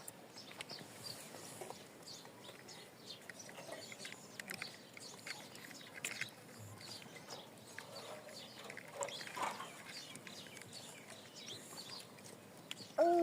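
Faint bird chirps and tweets, scattered irregularly, with a short, louder call that rises in pitch near the end.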